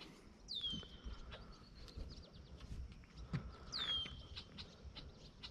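A bird calling twice, about three seconds apart: each call a high whistle that slides down and then holds steady. Faint scattered ticks and clicks sound between the calls.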